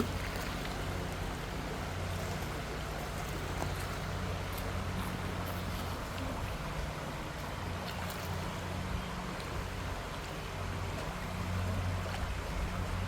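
Creek water flowing, a steady rushing noise with a low, steady hum underneath.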